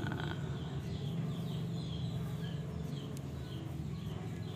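Small birds chirping in the background: short, high chirps repeating every half second or so over a low, steady hum.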